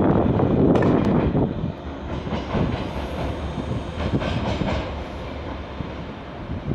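A train moving slowly along the station tracks, louder for the first second and a half, then wheels clicking over rail joints.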